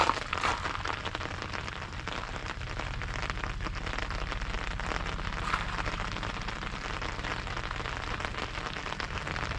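Steady rain pattering on an umbrella, a dense even patter of drops.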